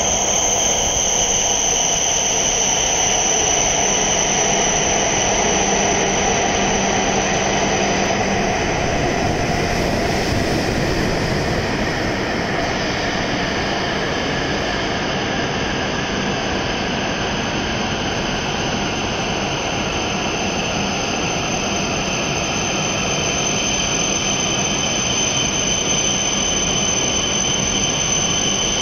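E7 series Shinkansen train pulling slowly into the platform and rolling past, a steady running noise with a high-pitched squeal held throughout. A lower hum under it drops away about eight seconds in.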